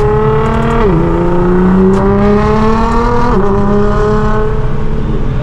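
Car engine accelerating hard through the gears: the pitch climbs, drops at an upshift about a second in, climbs again and drops at a second upshift a little over three seconds in, then holds nearly steady.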